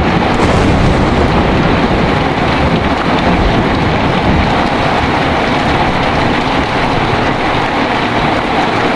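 Heavy rain pouring steadily, with a low thunder rumble underneath that eases after the first few seconds.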